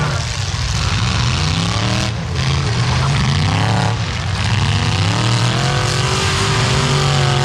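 Demolition derby cars' engines revving hard, their pitch rising and falling again and again, with a short drop about two seconds in and again about four seconds in, then holding higher and steadier near the end.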